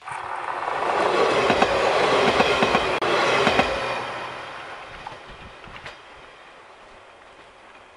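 JR West 115 series electric train passing close at speed, its wheels clacking rhythmically over the rail joints. It is loudest in the first three and a half seconds, then fades as the train recedes, with a few last clicks from the wheels about five to six seconds in.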